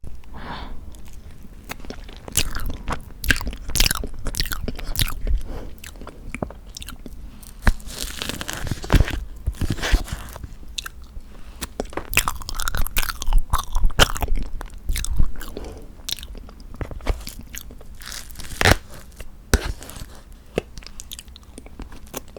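Close-miked ASMR eating sounds of tofu tiramisu cake: chewing and biting, with many irregular sharp mouth clicks and wet smacks.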